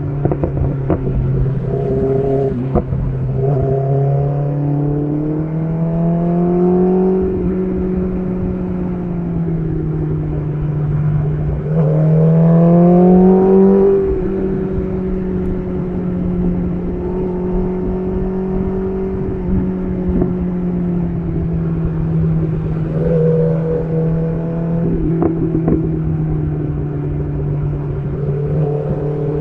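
BMW S1000RR inline-four engine through an SC Project titanium exhaust, running under way. Its pitch rises and drops with the throttle several times, with one stronger, louder pull about twelve seconds in.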